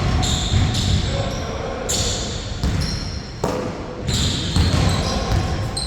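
Basketball game on a court: a ball bouncing with low thuds, and many short high squeaks of sneakers on the floor.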